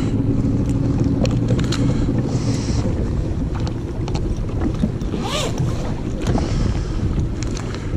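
Personal watercraft engine running steadily at low speed, with wind buffeting the microphone and scattered clicks. A brief squeal that rises and falls comes about five seconds in.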